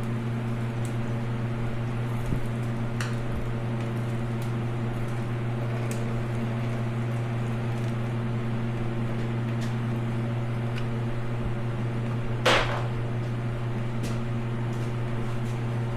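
Steady low mechanical hum of a running machine, holding a few fixed tones, with a few light clicks and one sharper knock about twelve seconds in.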